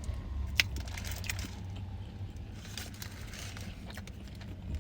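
Chewing a mouthful of bacon burger close to the microphone, with small mouth clicks and a sharp click about half a second in, over a low steady hum.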